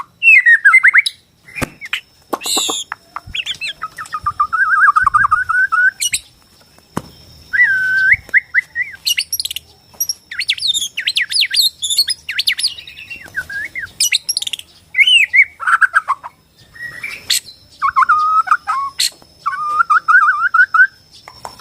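White-rumped shama (Bornean murai batu) singing: a varied run of whistled phrases, fast warbling trills and harsh rasping notes, with short pauses between phrases.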